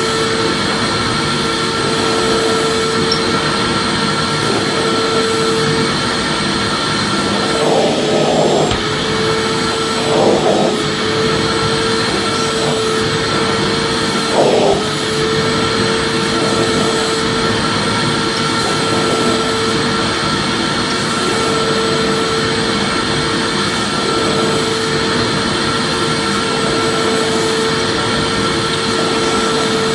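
Vacuum cleaner running continuously with a steady whine over a rushing air noise, used as soothing white noise for babies. Three brief surges break the steady sound in the first half.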